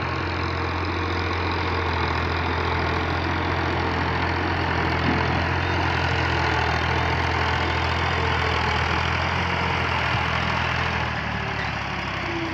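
Tractor's diesel engine idling steadily, easing off a little near the end.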